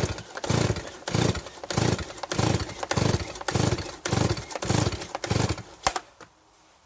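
Stihl MS170 two-stroke chainsaw being pull-started: about ten quick, even pulls of the recoil starter crank the engine without it catching, then a sharp click. The saw will not start, which the owner later blames on contact cleaner that got into the carburettor.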